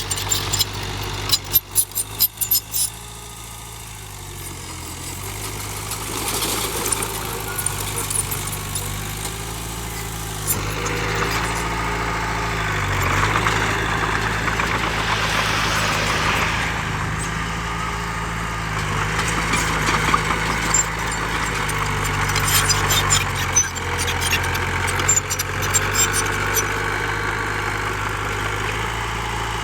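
Heavy diesel construction machinery running steadily, with a swell in engine noise about halfway through. Sharp clattering knocks, like stone or metal striking, come in the first few seconds and again near the end.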